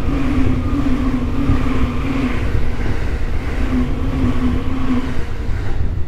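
JR East E531 series electric train running, heard from inside the carriage: wheel-on-rail rumble under a steady low motor hum. The noise drops away near the end as the train comes to a stop.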